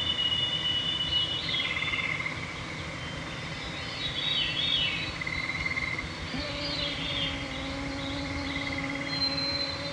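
Evening songbird chorus: clear, held whistled notes, short rapid trills and quick warbled phrases overlapping. About six seconds in, a mosquito's steady whine starts close to the microphone and carries on.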